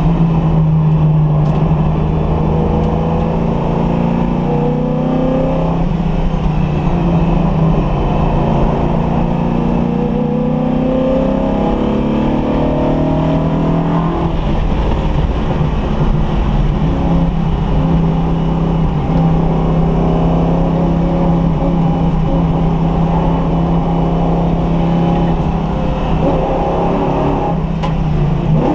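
A freshly rebuilt car engine being run in on a track, running under load: its pitch climbs several times in the first half as the car accelerates, then holds steady for a long stretch before dipping and rising again near the end.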